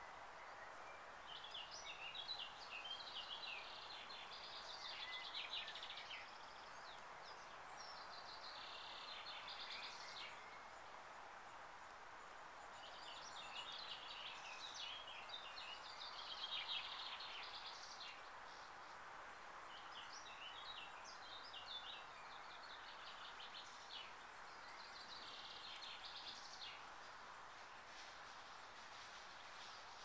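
A songbird singing short, fast, chirping phrases that come again every few seconds, over a faint steady background hiss.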